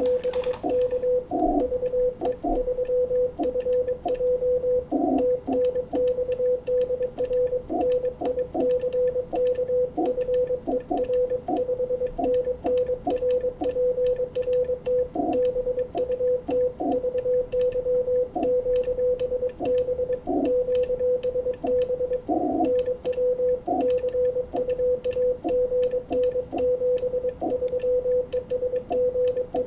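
Morse code (CW) from an amateur radio transceiver on 20 metres: a single medium-pitched tone keyed on and off in dits and dahs, with fast light clicking alongside.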